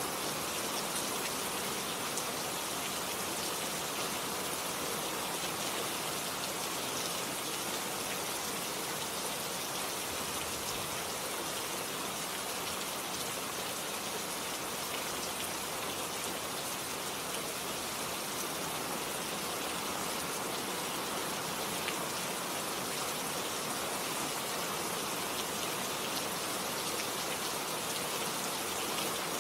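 Steady heavy rain falling, a dense even hiss with many fine drop patters on surfaces.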